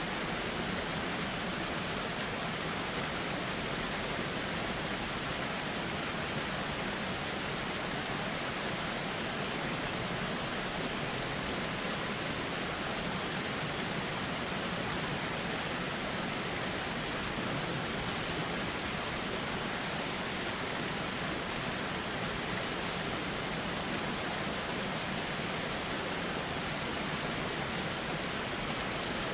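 Steady rush of a flowing river, an even wash of water noise with no distinct splashes or breaks.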